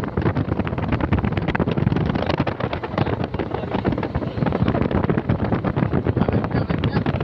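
Fishing boat's engine running steadily, with rapid even pulses, and wind buffeting the microphone.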